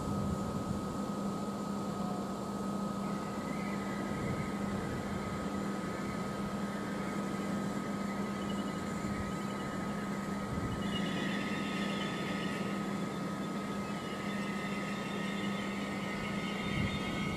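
Electric multiple-unit trains at a station platform: a steady electrical hum with a constant high tone, joined by a higher whine and hiss that comes in about three seconds in and grows stronger about eleven seconds in, as another train draws in.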